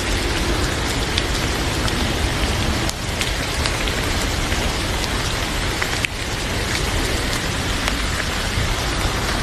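Heavy rain falling steadily, an even hiss with scattered sharp ticks.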